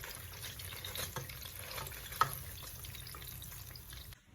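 Chicken frying in hot oil: a steady sizzle full of small pops and crackles, with one sharper pop about two seconds in. It cuts off just after four seconds.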